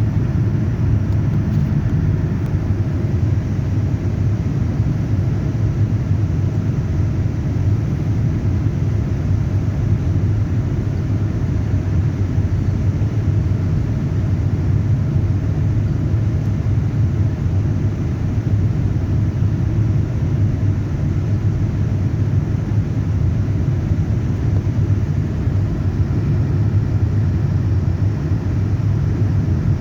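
Airliner cabin noise in flight: a steady, unchanging low rumble of the engines and airflow heard from inside the passenger cabin.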